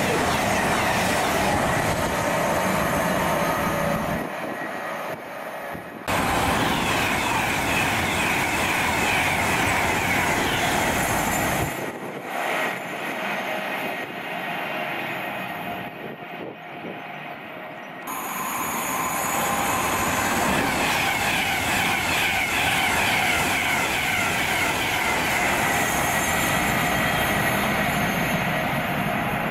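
Trains running past on the main line: a loud, steady rush of wheels on rail. It drops away sharply about four seconds in and again about twelve seconds in, coming back each time.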